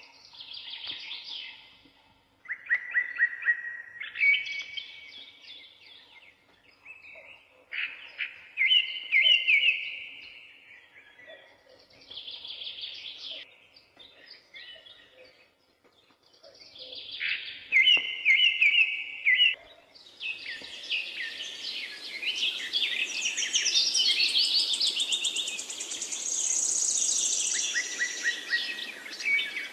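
Songbirds singing in short trilled phrases every couple of seconds; from about twenty seconds in the singing grows denser and higher, over a steady rushing noise.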